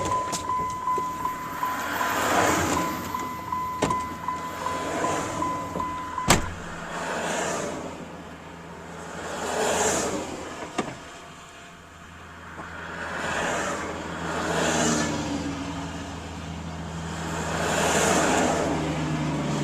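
Road traffic passing by in repeated rushing swells every few seconds. For about the first six seconds a steady high electronic beeping tone sounds, then stops with a sharp click.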